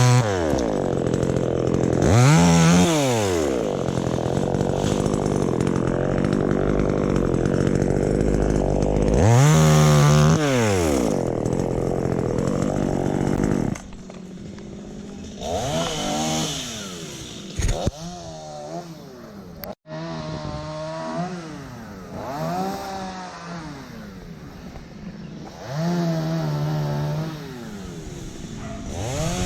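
Two-stroke chainsaw running at high revs for about the first fourteen seconds, its pitch climbing and falling, as in cutting wood. It then drops to a lower, quieter running speed with a few short revs.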